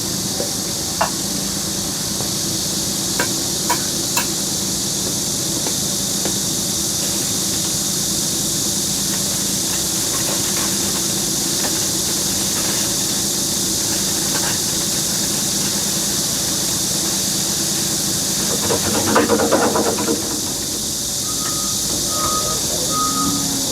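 Heavy construction machine's engine running steadily under a constant hiss, with a few sharp clanks early on and a short louder clatter near the end. A reversing alarm starts beeping just before the end.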